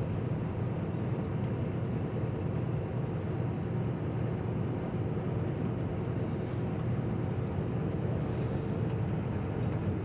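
Steady engine and road noise inside the cab of a moving truck, an even low rumble with no changes.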